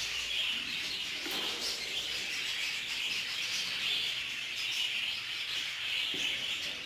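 Budgerigars chirping in a steady, continuous chatter.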